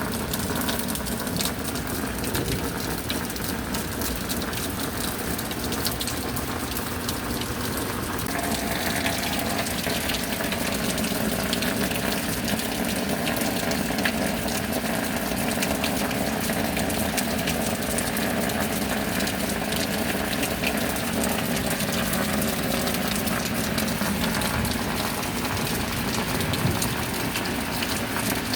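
Steady rain falling, a dense even hiss of countless drops, which grows a little brighter and heavier about eight seconds in.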